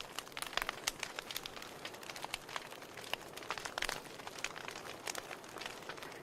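Wood fire in a fireplace crackling: frequent irregular sharp pops and snaps from the burning logs over a steady soft hiss of the flames.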